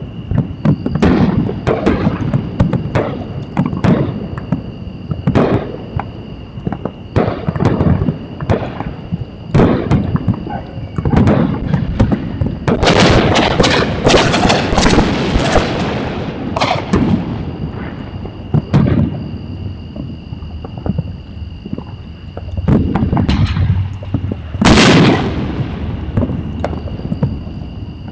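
Fireworks going off: a string of separate bangs and pops, with a dense crackling barrage about halfway through and one loud bang near the end.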